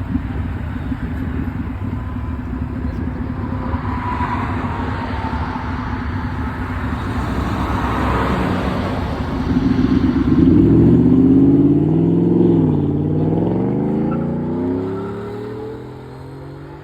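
Car engine running loudly at steady revs, then about ten seconds in the revs climb and drop through what sound like gear changes as the car accelerates away, fading near the end.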